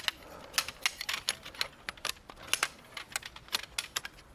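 Irregular light clicks and taps, a few a second, from the poles and plastic hubs of a hub-style mesh shelter being handled and spread out.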